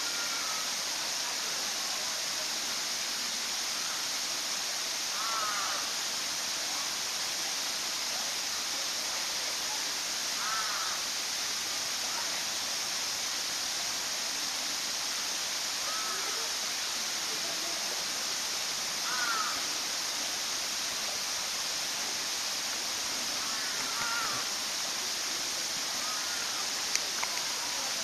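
A bird giving short, caw-like calls about six times, several seconds apart, over a steady hiss.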